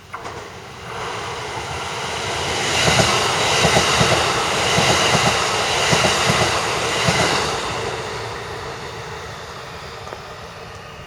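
Kintetsu Kashihara Line electric train passing close by: it builds up, runs past with a rhythmic clatter of wheels over the rail joints, and fades away.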